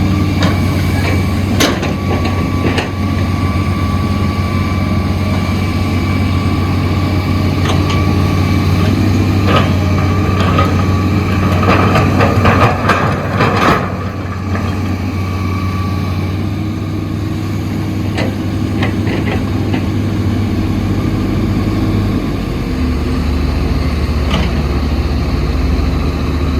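Heavy construction machine's diesel engine running steadily, with scattered metallic knocks and clanks and a short stretch of rattling and scraping around the middle. Late on, the engine note steps down to a lower pitch.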